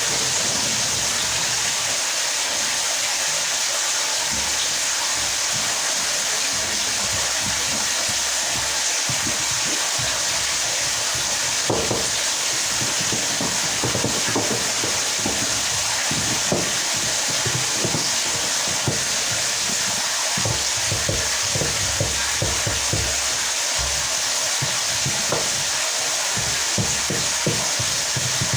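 Steady hiss of running water, with irregular knocks and bumps of parts being handled that come more often in the second half.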